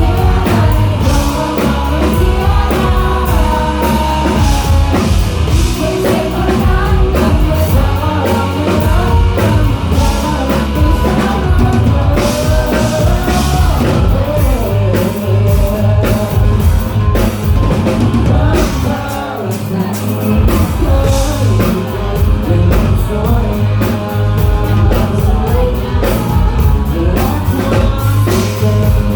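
A rock band playing live with singing over electric guitar, bass and drum kit.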